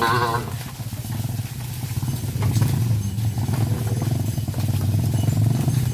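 A small engine running steadily with an even, rapid pulse. A short, wavering call sounds over it at the very start.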